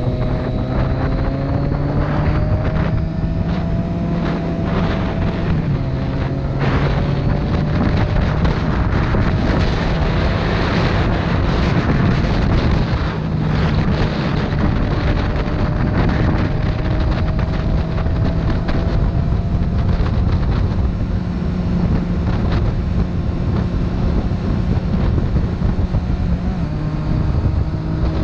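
Motorcycle engine running at road speed under heavy wind noise on the microphone. Its pitch climbs slowly and steps a few times, as with gear changes.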